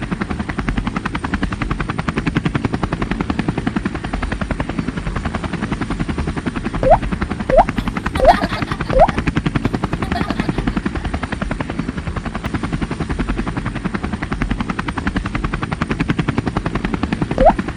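Helicopter rotor sound effect: a steady, rapid chopping beat. Twice, a quick run of short rising squeaky tones plays over it.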